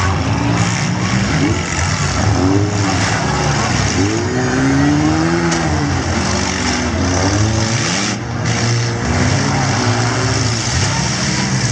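Several mid-size six-cylinder demolition derby cars running hard at once, their engines revving up and down in overlapping sweeps over a constant din, with a few short bangs.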